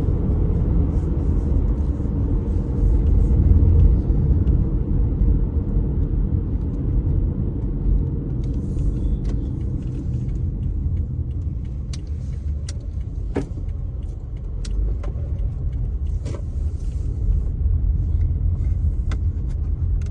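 Car interior road noise while driving: a steady low rumble of engine and tyres, with scattered small clicks and rattles through the second half.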